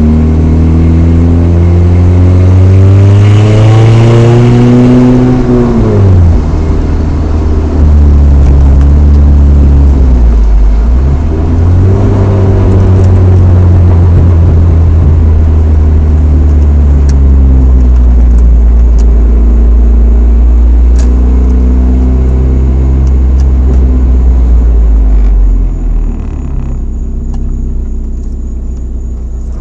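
Chevrolet S10's 2.2-litre four-cylinder through a Flowmaster 40 dual exhaust, heard from inside the cab while driving a manual gearbox: the revs climb and fall away sharply about six seconds in, dip and pick up again a few seconds later, hold steady, then drop lower near the end. A slight exhaust leak near the stock manifold may add a hissy, raspy edge, as the owner says.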